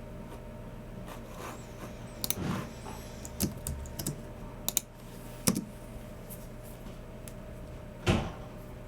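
Unhurried, scattered keystrokes on a Logitech MX Keys Mini low-profile keyboard: a handful of separate taps, then one louder knock near the end. A steady low hum runs underneath.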